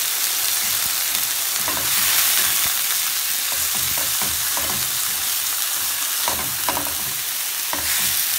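Chopped onion and sweet peppers sizzling in hot grapeseed oil on medium-high heat, a steady frying hiss. A spatula scrapes and taps the pan several times as they are stirred.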